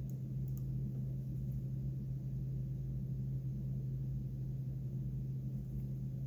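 A steady low hum that holds at one pitch, with a couple of faint small clicks in the first second.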